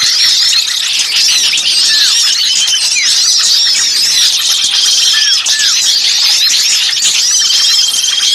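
Bird-lure recording of many small birds calling noisily together in an agitated chorus, the 'caught bird' commotion used to attract other birds: dense overlapping chirps and quick downslurred notes, with a buzzy trill returning about every three seconds.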